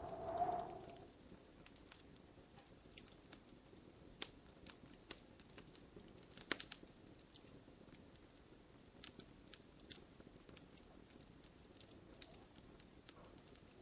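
Wood fire crackling softly in a fireplace: irregular sharp pops and snaps, with a small cluster of louder pops midway. A brief low, tone-like swell rises and fades near the start.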